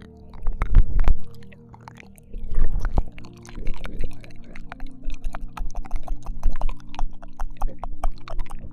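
ASMR ear-licking mouth sounds close to a binaural microphone: a few low, muffled rumbling swells in the first three seconds, then a quick run of short wet clicks and smacks. A steady low drone sits underneath.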